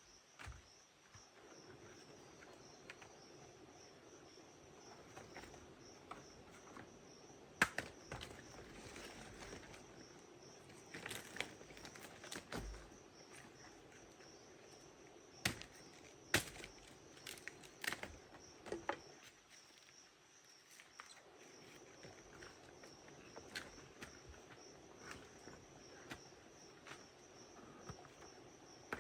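Insects, crickets among them, keep up a steady high drone in the forest, with scattered sharp knocks and taps over it, the loudest a little past a quarter of the way in and in a cluster just past the middle.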